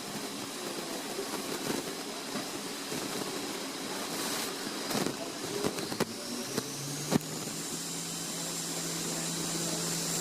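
Haas VF3 CNC vertical machining center running a program: a steady mechanical whir with a few sharp clunks about five to seven seconds in. Then the spindle spins up, with a high whine that rises and settles into a steady tone over a low hum.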